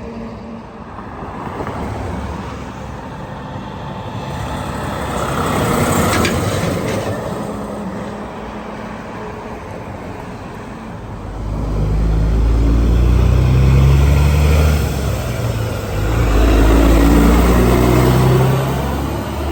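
Road traffic going by, with heavy diesel trucks passing close twice in the second half, their engines a deep, loud drone.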